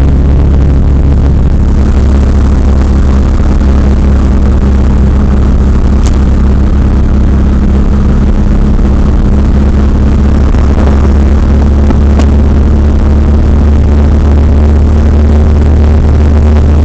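Chrysler Conquest TSi's turbocharged 2.6-litre four-cylinder engine running at a steady pace under way, heard from inside the cabin as a loud even drone over road noise. Two brief clicks come about six seconds apart.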